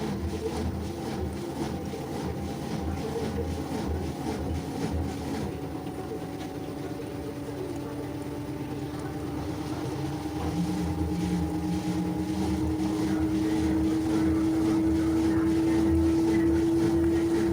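LG washing machine running a wash: its drum motor hums steadily, then its whine slowly rises in pitch and grows louder through the second half as the drum speeds up.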